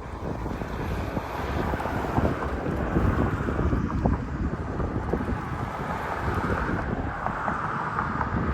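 Wind buffeting the microphone over the steady drone of a boat's motor, a continuous low rumble with a hiss on top.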